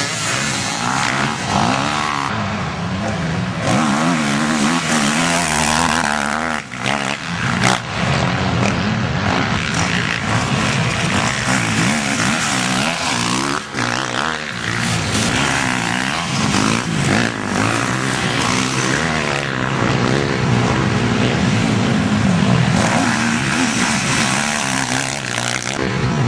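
Several motocross bikes running at once, their engines revving up and down in pitch as they race, with no let-up.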